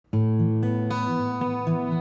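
Background music: an acoustic guitar picking a tune of ringing notes, starting abruptly right at the beginning.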